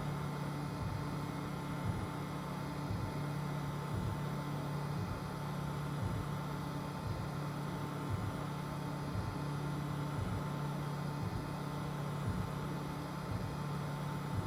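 FDM 3D printer running a print: the stepper motors hum, the hum breaking off and resuming every fraction of a second as the print head changes direction, over a steady whine and the hiss of the cooling fans.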